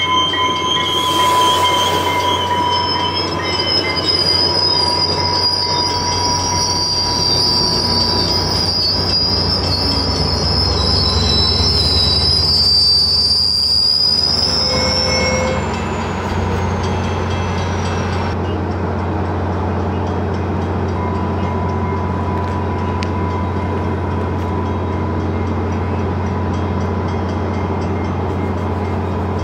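A New Mexico Rail Runner Express commuter train of bilevel coaches and a diesel locomotive passes with its wheels squealing on the rails in high, steady tones that sag slightly in pitch. About halfway through the squeal stops and a steady low diesel hum goes on.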